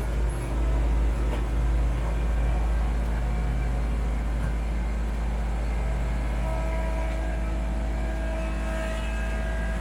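Kubota B2650 tractor's three-cylinder diesel engine running steadily while powering a BH77 backhoe. A higher steady tone joins about six and a half seconds in.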